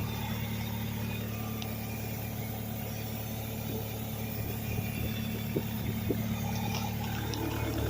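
Diesel engine of a Kubota KX057-4 mini excavator running steadily at idle, with faint thin high tones above the engine hum. This is the screeching and hissing noise the owner is chasing; he suspected a vacuum leak but found none.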